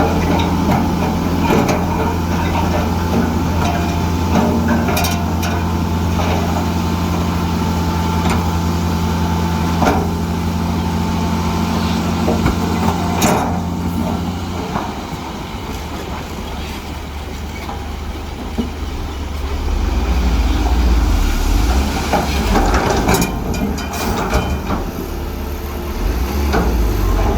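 Heavy diesel earthmoving machinery running steadily. Its engine note changes about halfway through, and occasional sharp knocks sound over the engine.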